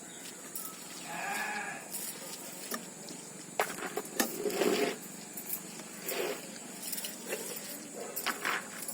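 A farm animal bleats once, a pitched call of just under a second about a second in. After it come scattered clicks and wet smacking sounds of someone eating rice by hand, loudest around the middle.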